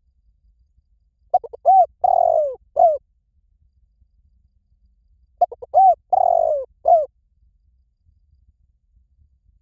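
Spotted dove calling: two phrases about four seconds apart, each a few quick short coos, then a longer falling coo and a short final coo.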